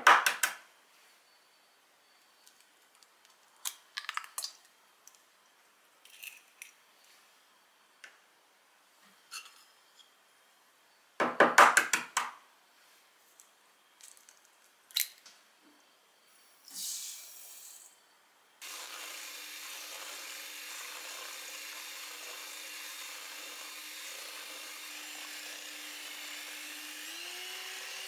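Kitchen clinks and knocks of bowls and utensils, loudest at the very start and about eleven seconds in. About two-thirds of the way through, an electric mixer starts and runs steadily, its pitch rising a step near the end.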